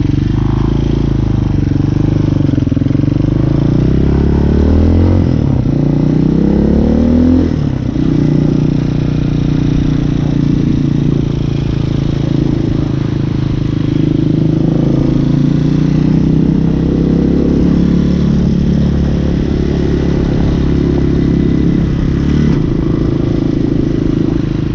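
Hawk 250 dirt bike's engine under way: it revs up rising in pitch about four to seven seconds in, drops sharply as the rider shifts up near eight seconds, then cruises at a fairly steady speed.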